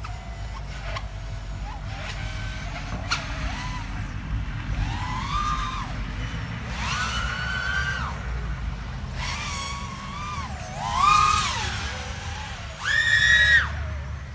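Brushless motors of an Eachine Diatone ER349 3-inch FPV quadcopter whining in flight. The pitch rises and falls with each throttle punch, over a steady low rumble. The loudest punches come about two-thirds of the way in and near the end.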